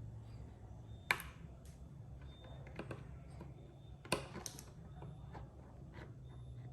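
A few sharp clicks and light knocks from 3D-printed plastic mudguard parts being handled and fitted together, over a low steady hum; the two loudest clicks come about a second in and about four seconds in.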